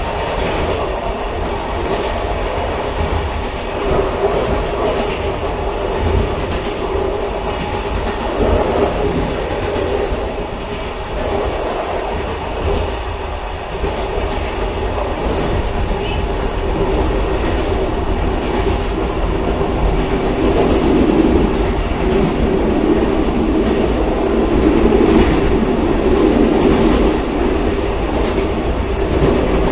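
Railcar running along the track: a steady low rumble with scattered clicks of the wheels over the rails, the running noise growing louder in the last third.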